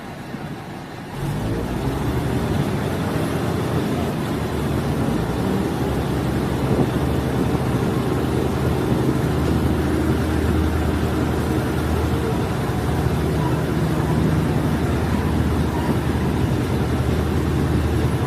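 Diesel multiple unit's engine coming up to power about a second in, then running steadily under load as a low drone with a haze of running noise over it.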